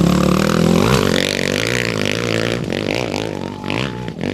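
Off-road race motorcycle engine revving, its pitch rising and falling, growing quieter as it moves away.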